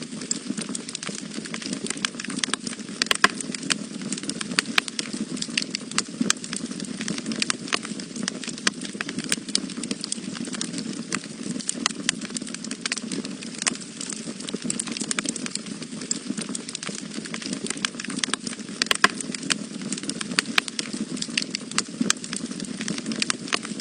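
Wood fire burning in a fireplace, with irregular crackles and pops over a steady low rumble of flames. A few pops stand out, about three seconds in and again near nineteen seconds.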